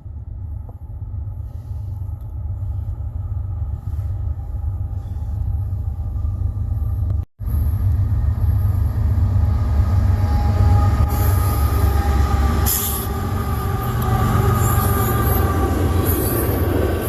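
An approaching train: a deep rumble that grows steadily louder. From about ten seconds in it is joined by high metallic squealing and hissing from the wheels on the rails. The sound cuts out for a split second about seven seconds in.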